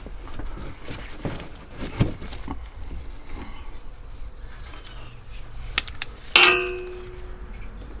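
Scattered small knocks and clicks of metal being handled, then about six seconds in a single loud metallic clang that rings for about half a second before fading.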